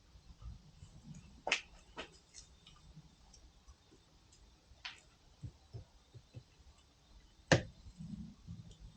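A few sharp knocks as a part of the CV axle is worked into place, the loudest about seven and a half seconds in.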